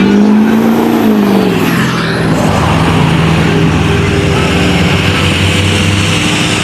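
A truck engine revs up and drops back over the first couple of seconds, then keeps running steadily at a lower pitch.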